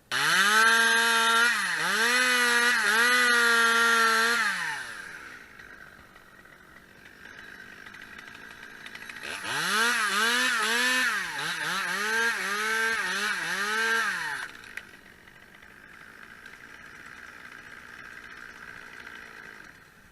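Two-stroke chainsaw revved hard for about four seconds, then dropping back to idle. A second run of about five seconds follows, with the revs dipping and recovering several times as under cutting load. It then idles quietly and stops near the end.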